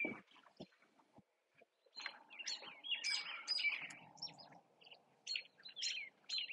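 Birds chirping in short, high calls, starting about two seconds in and coming in quick bouts.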